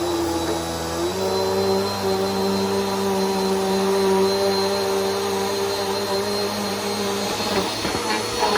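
Bissell PowerForce Helix upright vacuum cleaner running with a steady motor hum; its pitch steps up about a second in and drops back down near the end.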